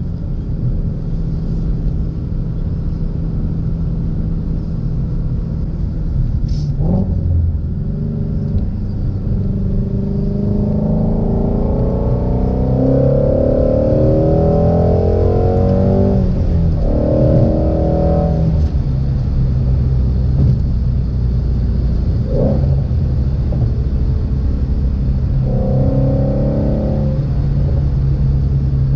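2016 Ford Shelby GT350's 5.2-litre flat-plane-crank V8 heard from inside the car while driving: steady cruising, then the revs climb hard under acceleration a few times, each pull cut off short. Two brief knocks stand out along the way.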